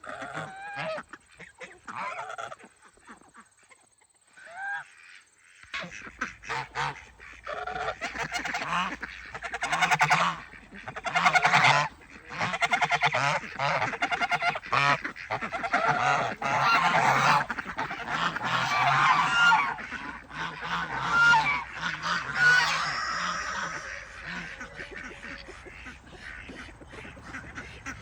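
Geese honking: a few scattered calls, then from about six seconds in many birds calling loudly over one another, easing off near the end.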